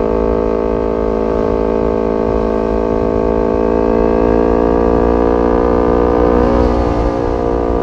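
Kawasaki Ninja 250 FI parallel-twin engine running through an aftermarket R9 H2 SS exhaust, pulling steadily in one gear. The pitch rises slowly, then eases off a little near the end.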